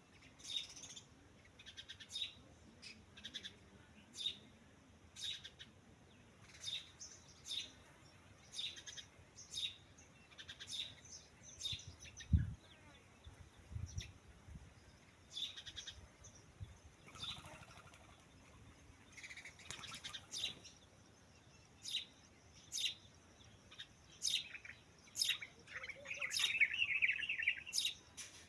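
Birds chirping: short high calls repeating about once a second, with a denser stretch of twittering near the end. A single low thump comes about twelve seconds in.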